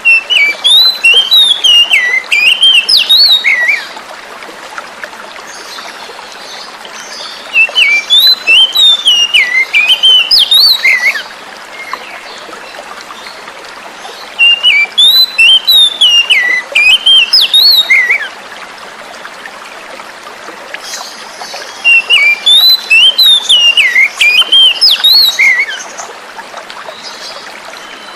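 Oriental magpie-robin (kacer) singing in four bouts of varied, quickly changing whistled phrases, each lasting about four seconds with pauses between, over the steady rush of flowing water. It is a lure song played to prompt a captive kacer that has stopped singing.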